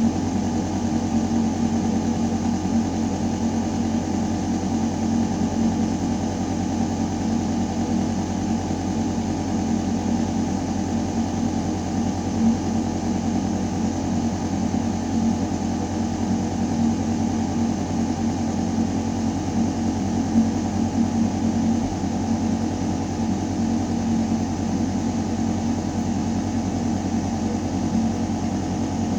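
Building ventilation system running: a steady low mechanical hum with air rushing through metal ductwork, unchanging throughout.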